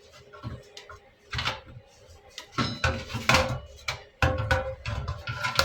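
Metal parts clanking and knocking as they are handled, a string of separate knocks about a second or two apart, coming closer together near the end, over a faint steady hum.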